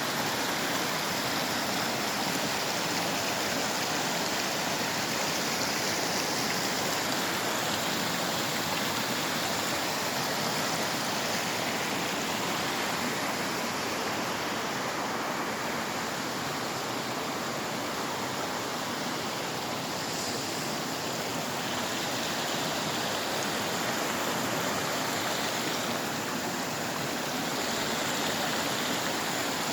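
Icy river running in a steady rush of water noise, even and unbroken throughout.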